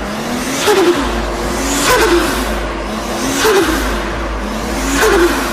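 Turbocharged car engine accelerating hard. Its note climbs and then drops sharply at each gear change, about every one and a half seconds. Each drop comes with a burst of hiss as the turbo boost is released.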